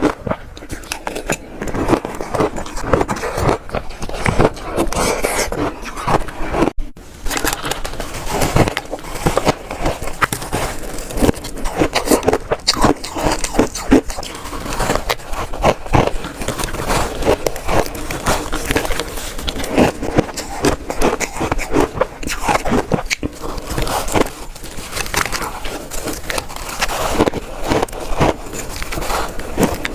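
Shaved ice being bitten and crunched close to the microphone, bite after bite in quick succession, with crisp crackling and scraping between the bites.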